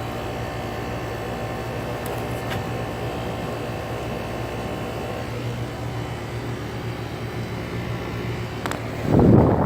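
2015 Goodman 5-ton central air conditioner condenser running: a steady hum with several steady tones from its Copeland scroll compressor and condenser fan. Some of the tones drop out about halfway through, and a loud rushing surge comes near the end.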